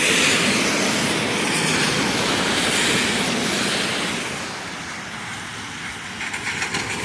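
A car passing on a rain-soaked road, its tyres hissing through the standing water, loud at first and fading after about four seconds, with the next vehicle beginning to swell in near the end.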